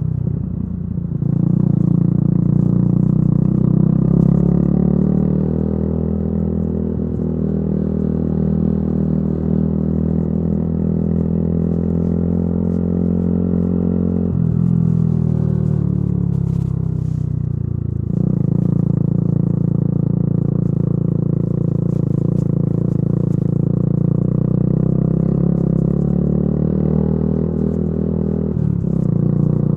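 Yamaha YZF-R125's single-cylinder four-stroke engine through a modified exhaust, riding at a steady pitch. About halfway the throttle closes and the note falls for a few seconds, then it jumps back up and holds steady again.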